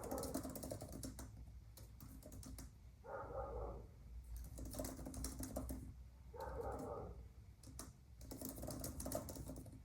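Quiet typing on a computer keyboard: irregular runs of key clicks.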